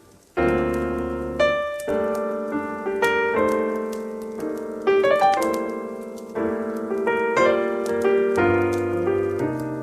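Slow jazz piano music: chords and a melody over low bass notes, coming in after a brief pause about half a second in.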